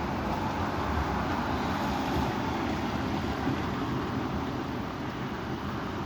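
Strong wind blowing, a steady rushing noise with an uneven low rumble of gusts buffeting the microphone.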